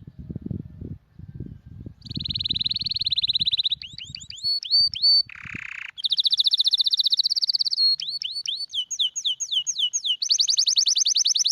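Domestic canary singing: fast buzzing trills alternating with runs of quick downward-sliding whistled notes, about four or five a second, with a short harsh rasp about five seconds in. Low pulsing sounds come before the song starts about two seconds in.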